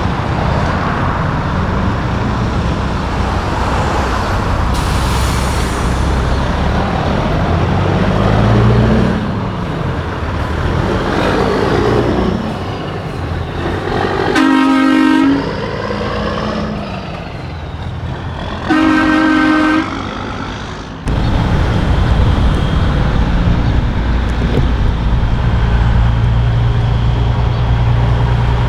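Semi trucks pulling out with diesel engines running, and two air horn blasts of about a second each, about four seconds apart, midway.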